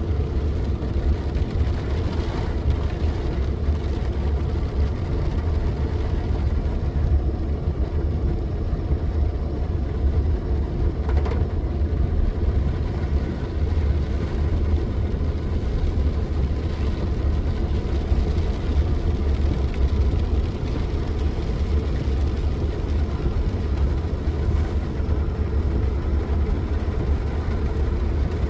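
Steady low rumble of a car driving, with road and engine noise and a few faint knocks.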